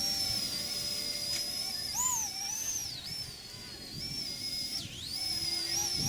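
Electric motor of a micro 1:36-scale RC EC135 helicopter whining at a high pitch that swoops up and down as the throttle changes: it rises sharply about two seconds in and dips twice, then climbs back.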